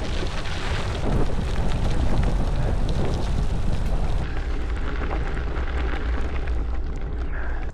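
Wind rushing and buffeting over the microphone while riding a bicycle: a steady, deep rumble with a hiss above it.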